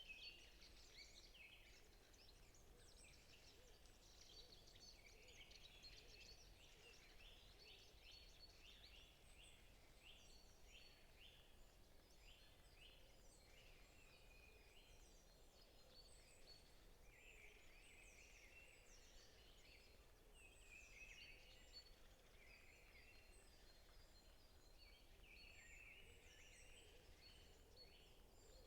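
Faint chorus of many small forest birds chirping and trilling, several singing at once in quick repeated notes, over a low steady background hiss.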